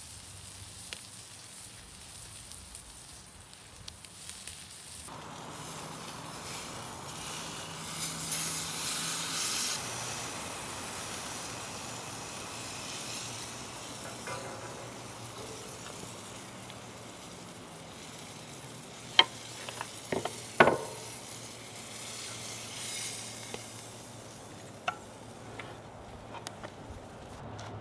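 Food sizzling on cast iron over a campfire. The sizzle starts abruptly a few seconds in and swells for a couple of seconds soon after. There are a few sharp clicks about two-thirds of the way through, and one more near the end.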